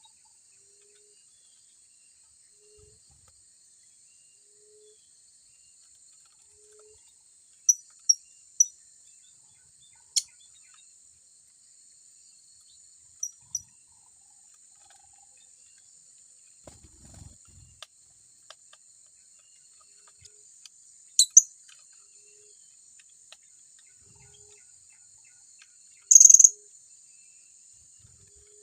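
Blue-crowned hanging parrots (serindit) giving short, sharp, high-pitched chirps, singly, in pairs and in a run of three, with one longer, louder call near the end, over a steady high-pitched insect drone.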